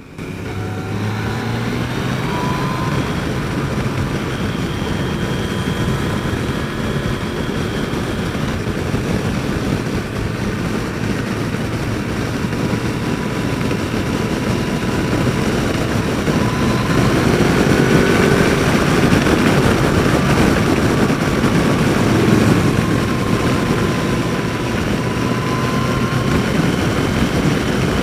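Motorcycle riding at speed: the engine runs steadily under heavy wind rush, with its pitch slowly rising and falling, a little louder in the second half.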